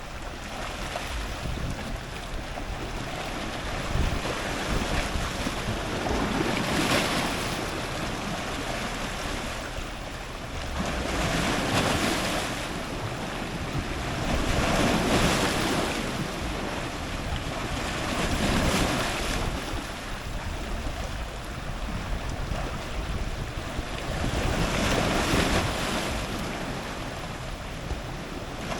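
Ocean surf breaking on rocks: a steady wash of water with about six waves surging in, each a swelling rush that builds and fades over a second or two, a few seconds apart.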